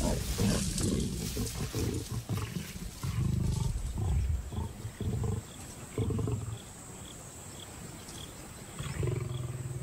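Lions growling and snarling in a series of short, loud bursts, a male lion driving lionesses off a carcass. A faint insect chirps about twice a second in the background from about three seconds in.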